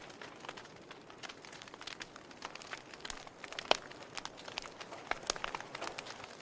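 Wood fire crackling in a fireplace: irregular snaps and pops over a soft hiss, with one louder pop about halfway through.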